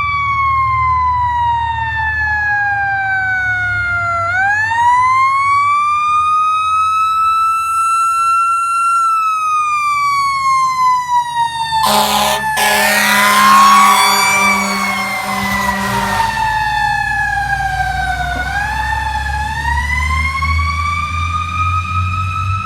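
Fire engine's siren wailing, its pitch sliding slowly down, up and down again, over the low rumble of the truck. About twelve seconds in, a loud blaring horn blast of several seconds cuts across it.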